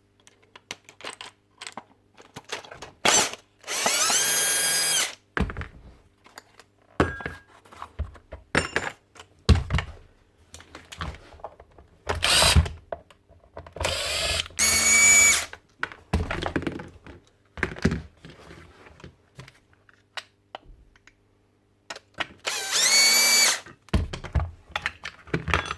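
Cordless drill/driver running in three short bursts, each rising in pitch as it spins up, backing out screws to dismantle a Paslode nail gun. Between the bursts, scattered clicks and clatter of small metal parts and tools being handled.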